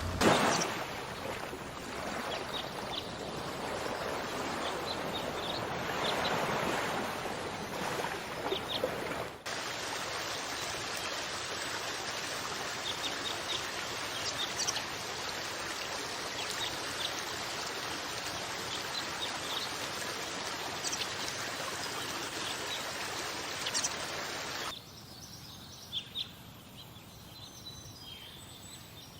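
Steady rush of running water with small birds chirping over it, opening with a brief louder burst. Near the end the water sound cuts off suddenly, leaving quieter birdsong.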